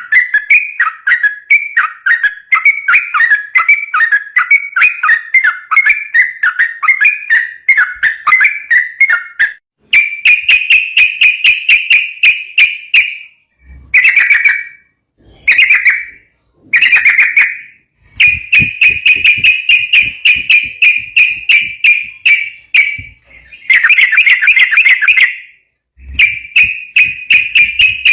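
Yellow-vented bulbul (trucukan) singing a rapid, continuous run of clear whistled notes, broken by a few short pauses around the middle and again near the end.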